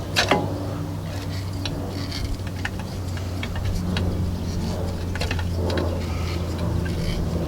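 Light, irregular metallic clicks and taps from a brake caliper being worked with an old brake pad to press the caliper piston back in, over a steady low hum.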